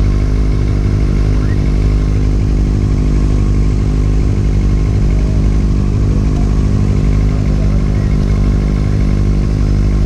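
Motorcycle engine running steadily at an even speed, loud and without clear revving.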